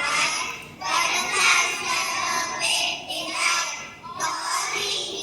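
A group of students reciting a poem about nature in unison, their voices in a sing-song chant broken into phrases of a second or two.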